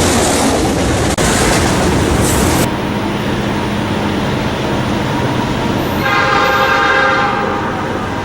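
Train running on the rails with steady wheel and track noise, which changes abruptly just under three seconds in. About six seconds in, a train horn sounds one blast of about a second and a half.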